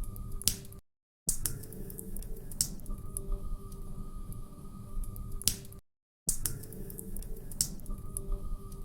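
Log fire crackling in a fireplace: irregular sharp pops and snaps over a low rumble of burning. The sound cuts out completely twice, briefly, about five seconds apart.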